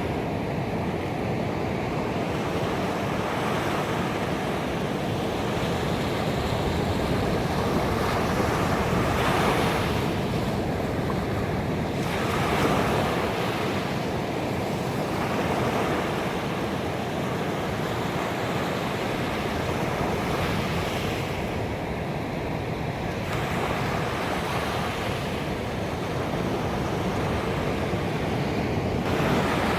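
Ocean waves breaking on a beach: a steady wash of surf with several swells of louder breaking surf.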